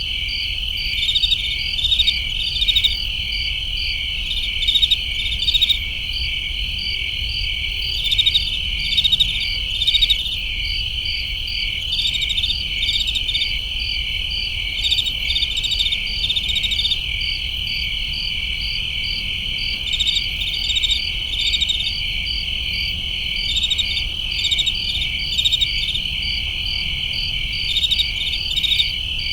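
A chorus of crickets chirping at night: a continuous high trill with pulsed chirps layered over it in clusters about once a second, above a steady low rumble.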